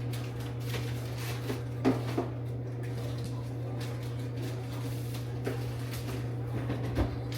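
Kitchen handling sounds: a few short knocks and clacks, two close together about two seconds in and one near the end, over a steady low hum.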